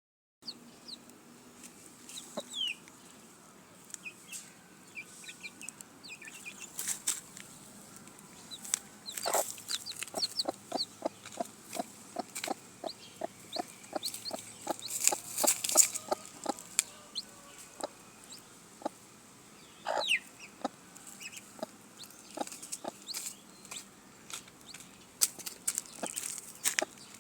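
Chickens clucking, with scattered high chirps and short sharp clicks; for several seconds in the middle a run of quick regular taps comes at about four a second.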